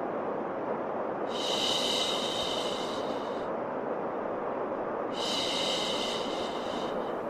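Steady low white noise with a long 'shhh' shushing laid over it twice, each shush about two seconds long and about two seconds apart, a baby-calming shush-and-noise loop.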